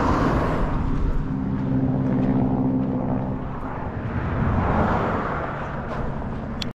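Motor vehicle engine and road noise, with a steady engine hum for a few seconds and a broad rushing sound that swells and fades twice.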